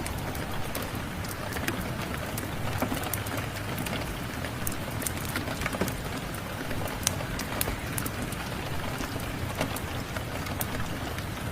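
Steady rain mixed with the irregular snaps and pops of a crackling fireplace fire.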